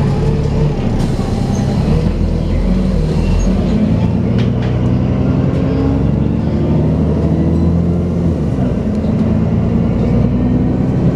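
Dennis Trident 2 double-decker bus running under way with its whining 'hoover' sound. The engine note rises for several seconds, drops briefly about eight seconds in, then climbs again.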